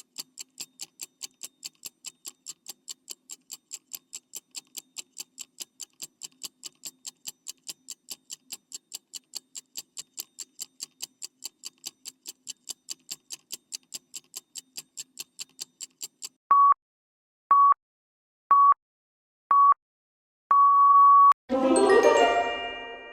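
Quiz countdown sound effects: a clock ticking about four times a second, then four short beeps a second apart and a longer fifth beep signalling time is up. Near the end comes a loud bright chime with a ringing tail.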